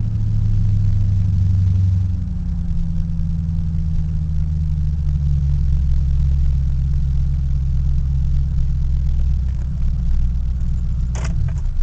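1994 Mercury Cougar XR7's 4.6 V8 running loud and deep through a chopped exhaust with the mufflers cut off and no pipes; the revs drop to a steady idle about two seconds in. Near the end there is a short sharp click and the engine shuts off.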